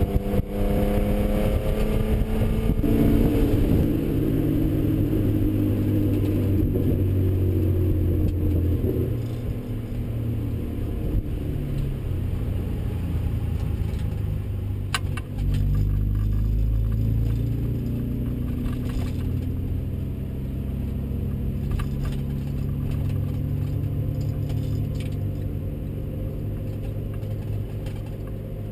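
BMW E36 M3's inline-six engine heard from inside the cabin. The revs fall over the first few seconds, the engine is loudest for several seconds after that, and then it runs at lower, steadier revs. A few sharp clicks and rattles come around the middle.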